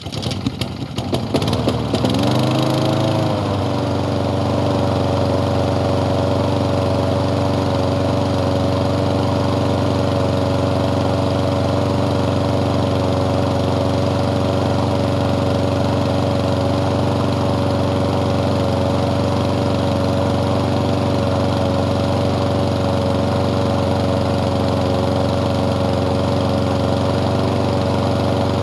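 Small four-stroke lawn mower engine starting: it catches in the first second, revs up and settles into a steady run at a constant speed.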